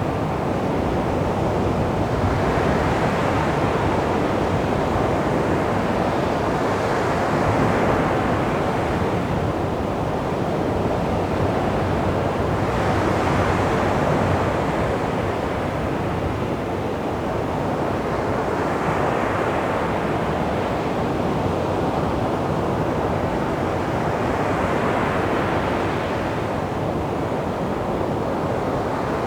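Calm sea waves breaking and washing up a beach: a steady surf hiss that swells with each incoming wave, about every five to six seconds.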